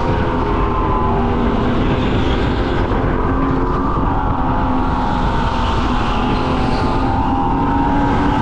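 Racing go-kart at speed: a steady motor whine that dips and rises slightly in pitch with the throttle, over road and wind rumble.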